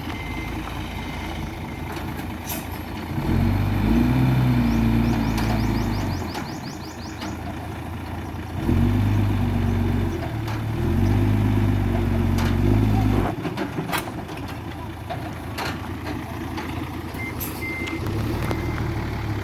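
Excavator's diesel engine running, revving up three times for a few seconds each under hydraulic load, the pitch rising and falling back each time. A dotted high beeping alarm sounds near the start and again near the end.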